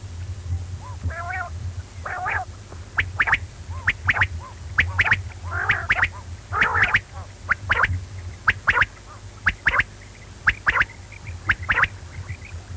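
Quail calling: a quick run of short, sharp notes, several a second, broken by a few longer chattering calls, over a steady low hum.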